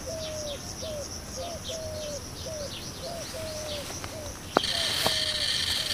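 Birds calling: a short, hooked mid-pitched call repeated about three times a second, with high, falling chirps above it. About three-quarters of the way through, a click sounds and a steady high-pitched buzz starts.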